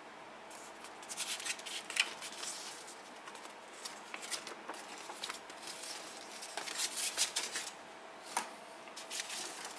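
Paper booklets and box packaging being handled, with irregular rustling and light clicks.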